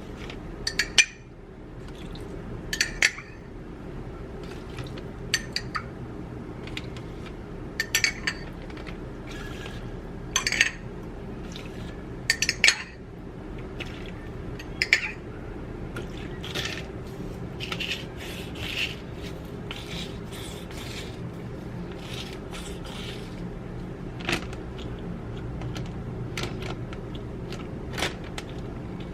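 Kitchen utensils clinking and knocking against dishes and pans during cooking: scattered sharp clinks, louder and more frequent in the first half, over a steady low hum.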